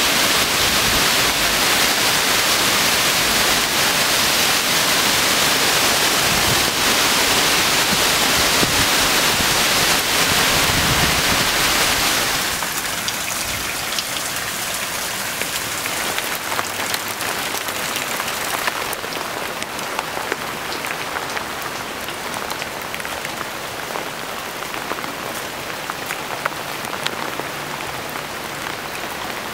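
Torrential rain pouring down in a steady, loud hiss. About twelve seconds in it turns quieter, and single drops are heard ticking and splashing onto puddled paving and wet ground.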